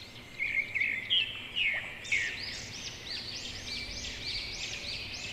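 Birds chirping: a few whistled notes, then from about two seconds in a quick run of short, high chirps, roughly three a second.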